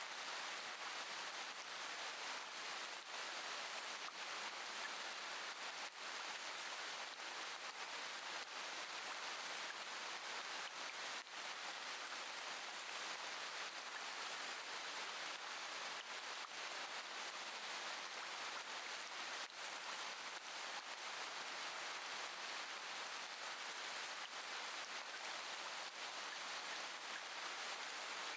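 Steady rain falling, an even hiss with a few sharper drop-like ticks.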